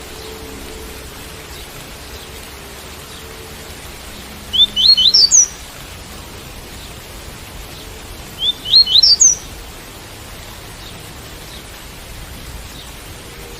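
Double-collared seedeater (coleiro) singing the tui-tui song type: two short phrases of quick rising whistled notes, about four seconds apart, over a steady hiss of rain.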